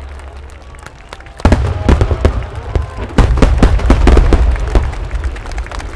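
Rapid barrage of aerial firework shells bursting: many sharp bangs and crackles in quick succession over a low rumble, starting suddenly about a second and a half in.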